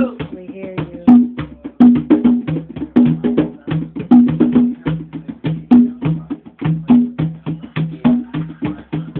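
Hand drumming in a fast, steady rhythm: sharp, crisp strikes between deeper pitched strokes, two low drum tones alternating, with a heavy accent about once a second.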